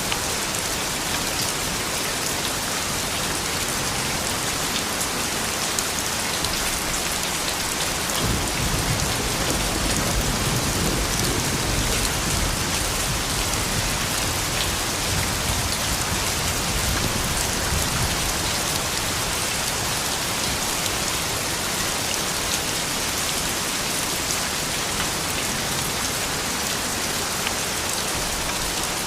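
Steady rain falling, an even patter of drops. A low rumble swells about eight seconds in and fades out about ten seconds later.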